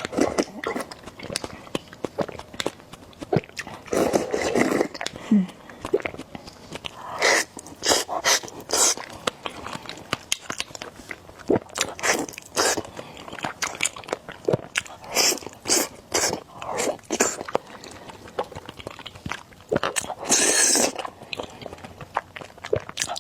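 Close-miked eating: slurping noodles and chewing with wet mouth sounds, in short irregular bursts.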